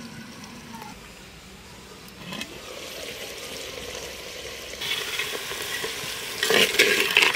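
Lid lifted off a clay cooking pot, then duck curry sizzling as the meat is fried down with spices and a metal spoon stirs it, scraping against the earthenware pot, loudest near the end.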